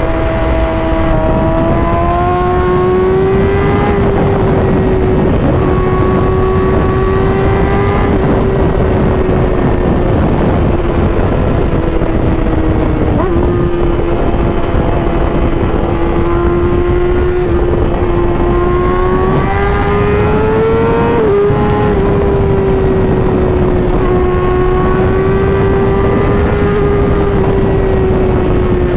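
Sport bike's inline-four engine held at high revs at highway speed, over steady wind rush. The pitch rises and sags gently every few seconds with small throttle changes, with no hard downshifts or full-throttle runs.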